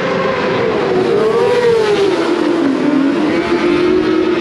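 Superbike racing motorcycles passing at high revs, a loud engine note that wavers, drops sharply about halfway through as a bike goes by, then holds steady.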